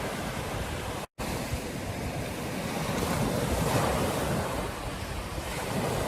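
Ocean surf washing onto a beach in a steady rush that swells about three to four seconds in. The audio drops out completely for a split second about a second in.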